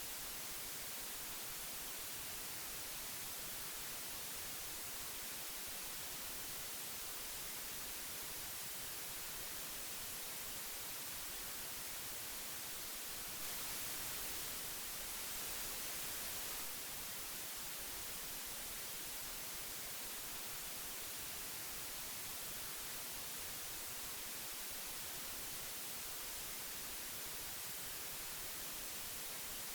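Old analogue tape hiss: a steady, even hiss, strongest in the high end, a little louder for about three seconds near the middle.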